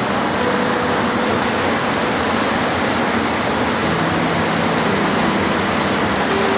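Steady heavy rain falling, an even dense hiss with a few faint held hums coming and going beneath it.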